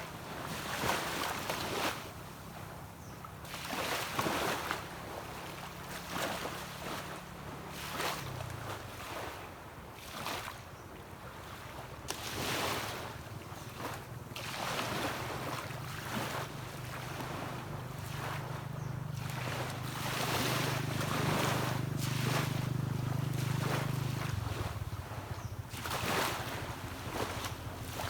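Small sea waves washing onto a beach in repeated surges every second or two, with a distant boat engine humming steadily underneath. The engine's note changes about eight seconds in, then grows louder before dropping off abruptly near the end.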